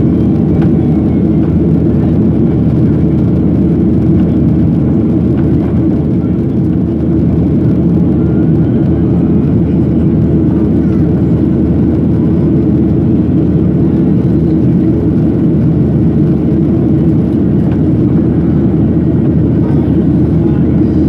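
Boeing 737-800's CFM56-7B engines and airflow heard from inside the passenger cabin: a loud, steady roar, heaviest in the low range.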